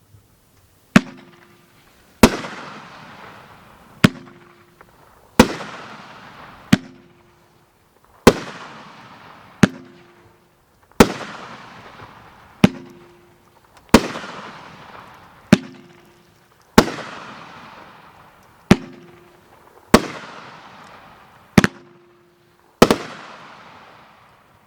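Red Rhino "White Stag" firework going off shot after shot, eight times in all, about every 2.8 seconds. Each shot is a sharp launch bang with a short low ring from the tube, then about a second later a louder burst that trails off in a long, fading crackling hiss.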